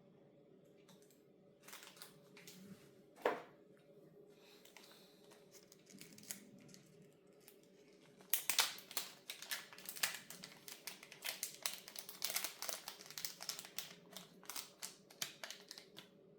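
Small plastic clock parts and their packaging being handled: scattered sharp clicks with one louder click, then from about halfway a dense run of quick clicks and crinkling.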